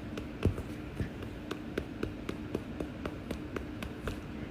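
A steady series of light ticks or taps, about four a second, the strongest about half a second in, over a faint steady hum.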